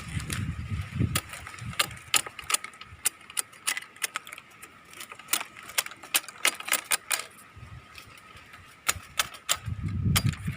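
Irregular sharp clicks and snips of a hand cutting tool trimming thorns off date palm fronds, several strokes a second at times, with pauses between.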